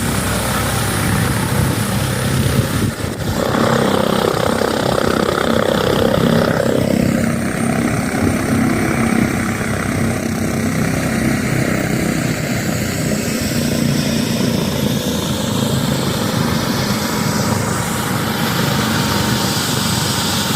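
Airbus H145 twin-turbine helicopter landing: continuous loud rotor and turbine noise. About seven seconds in, the higher hiss thins out while the low rotor rumble carries on.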